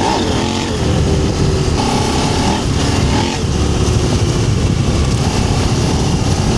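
KTM 790 Adventure R's parallel-twin engine running steadily under way on an off-road trail, under a constant rushing noise.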